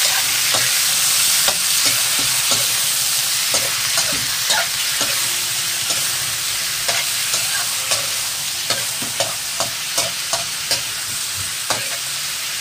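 Chicken wings sizzling in hot oil in a wok while being stirred and turned with a metal spatula, which scrapes and clicks against the pan about one or two times a second. The chicken is being browned.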